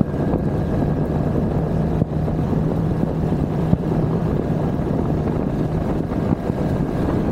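A vehicle's motor running steadily under a rushing wind and road noise. A low hum fades out about two-thirds of the way through, and a faint high tone holds steady.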